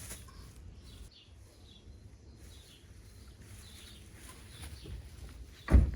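Birds chirping faintly and intermittently, with one loud, short low thump near the end.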